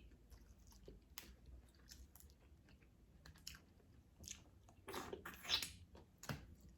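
Close-up chewing and mouth sounds of someone eating a seafood boil: soft scattered clicks and smacks, with a louder burst of chewing about five seconds in.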